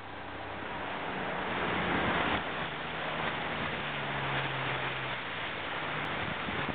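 Wind rushing over the microphone and water washing along a sailboat under sail, building over the first couple of seconds and then steady, with a faint low hum underneath.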